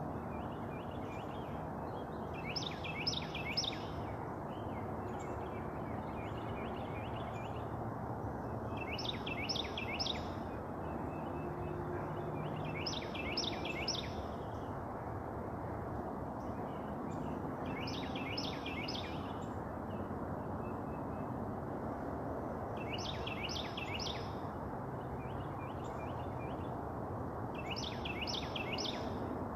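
A songbird sings a short phrase of three or four quick downslurred whistles, repeating it about every four to five seconds over a steady background rush.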